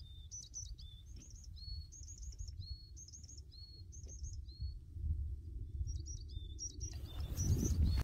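A bird chirping over and over: a quick high trill followed by a short rising note, about once a second. Underneath is a low wind rumble that swells near the end.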